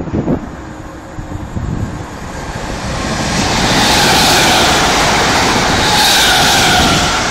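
First Capital Connect electric multiple unit passing through at speed: a rush of wheels on rail and air that swells from about three seconds in and stays loud to near the end, with a whine that slides gently down in pitch as it goes by. Wind buffets the microphone at the start.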